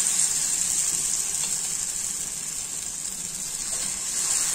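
Uttapam batter sizzling on a hot, oiled tawa (flat griddle) as it is ladled on: a steady, high hiss.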